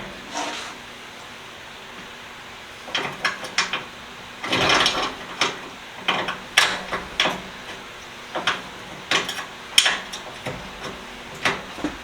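Irregular metallic clicks, clanks and short rattles of steel tool box parts being handled, over a steady low hum.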